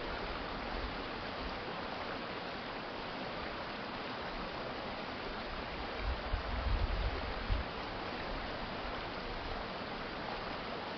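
Urban stream water flowing steadily, a continuous even rush. About six seconds in, a brief low rumble rises under it for a second and a half.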